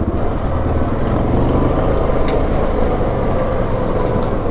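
Yamaha Grizzly 700 ATV's single-cylinder engine running steadily while riding along a trail, with a few faint ticks over it.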